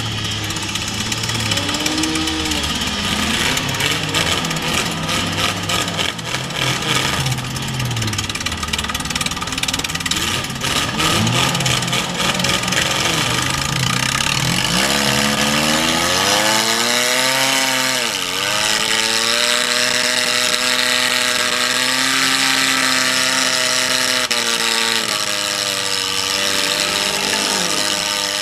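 Demolition derby car's engine running, heard from inside the stripped cab, with heavy clanking and knocking of loose metal through the first half. About halfway it revs up and holds at high revs, dipping briefly once.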